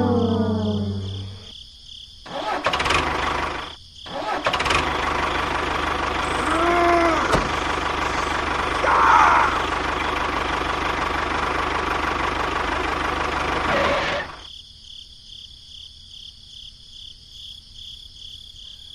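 A falling brass-like tone fading out, then a mechanical running noise with an engine-like sound that starts, breaks off briefly, runs steadily and cuts off suddenly about fourteen seconds in.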